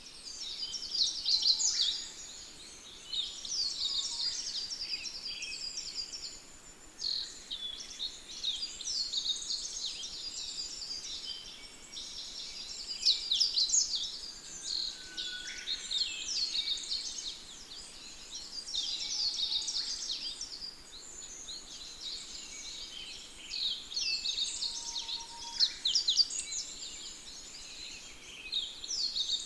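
Birds chirping and singing, many short high calls overlapping in a continuous chorus.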